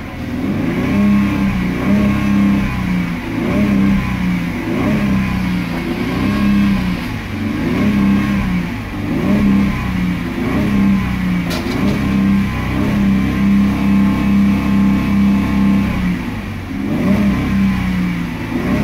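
A 2005 Holden Commodore's 3.6-litre V6 being revved while parked, held at about 3,000 to 4,000 rpm. The note swells and dips about once a second, heard from inside the cabin.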